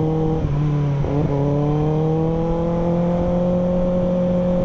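Kawasaki ZX-6R 636's inline-four engine running at a steady throttle, with a brief dip in pitch about a second in and then a slow, gentle rise. Wind buffets the microphone underneath.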